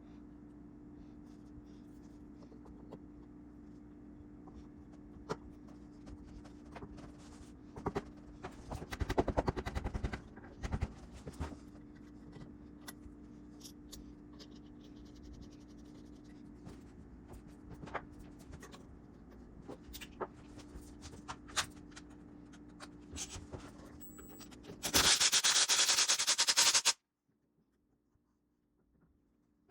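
Workshop work sounds: scattered clicks and knocks over a steady low hum, with a quick rattling run of clicks about a third of the way in. Near the end comes a loud two-second hiss, then the sound cuts off abruptly.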